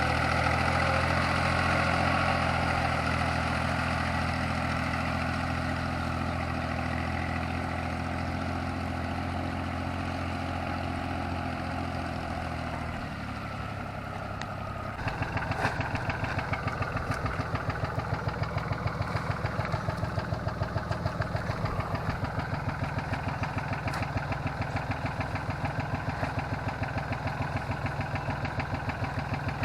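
Yanmar YM3000 tractor's diesel engine running steady. About halfway through, its sound changes to a louder, evenly pulsing beat.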